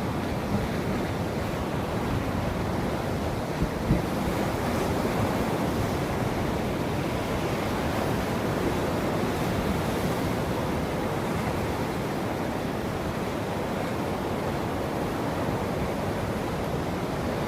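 Ocean surf washing steadily onto a shore, with no single wave standing out, and a couple of faint knocks about four seconds in.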